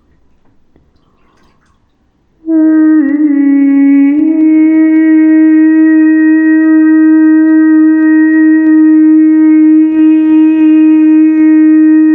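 Music: after a quiet stretch, a single long note comes in about two and a half seconds in and is held at one steady pitch. It wavers briefly as it starts.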